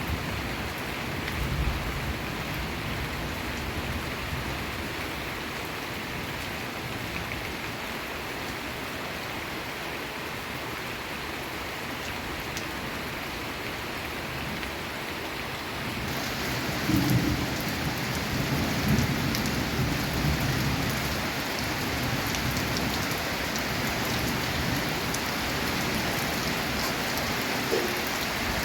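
Monsoon rain drumming steadily on a corrugated tin roof. It grows heavier about halfway through, with a low rumble soon after.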